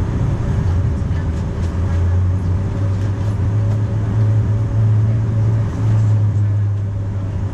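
Steady cabin noise of a Boeing 737-900 airliner: a low drone from its two CFM56-7B engines under a haze of air noise, the drone swelling slightly about halfway through.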